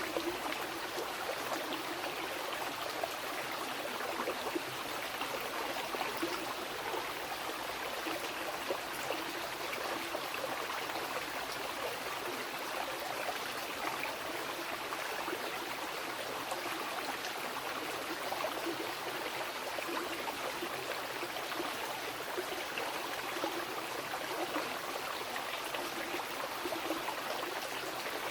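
Mountain river flowing over rocks: a steady rush of water with a fine splashing, babbling texture and no pauses.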